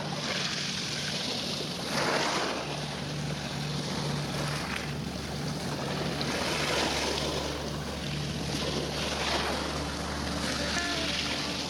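Wind rushing over the microphone and the sound of water by the shore or a ship, swelling now and then, over a steady low mechanical hum.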